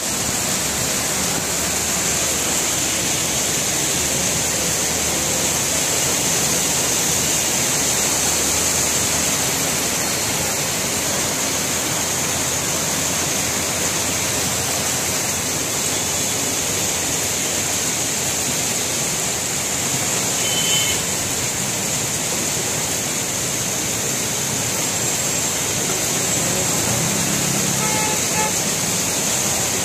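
Heavy rain pouring steadily onto a wet road with traffic, a constant loud hiss. A car horn sounds briefly a couple of times in the later part.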